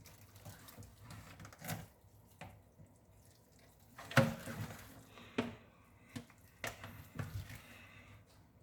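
Kitchen handling sounds while raw chicken is being prepared: a few scattered knocks and clatters of dishes or utensils, the loudest about four seconds in, over a quiet room.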